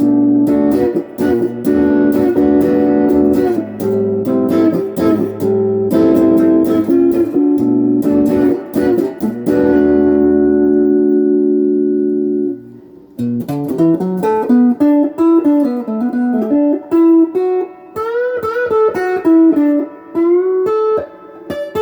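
Electric guitar on its neck pickup, played through a Golden Plexi overdrive pedal into a Crate GX15R amp: strummed overdriven chords, the last one left ringing, then after a short break about two-thirds of the way in, a single-note lead line with string bends.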